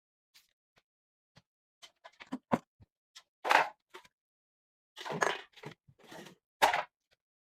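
Scattered clicks and knocks with a few short rustling or scrubbing bursts: household objects being handled and set down during cleaning, with the sharpest knock about two-thirds of the way in.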